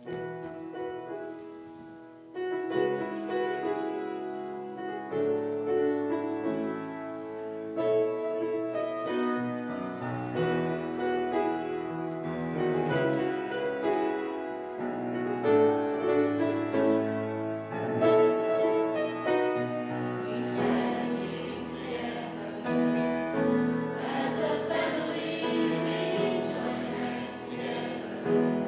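A youth choir singing a hymn in harmony, with instrumental accompaniment. The sound grows fuller and brighter from about twenty seconds in.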